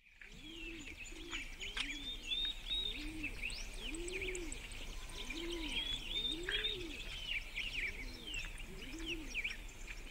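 Birdsong fading in: many quick high chirps and trills, with a lower arched call repeating about once a second underneath.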